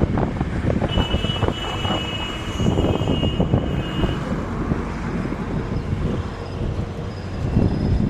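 Steady engine rumble with irregular clatter and knocks at a building site, and a thin high whine from about a second in that lasts some three seconds.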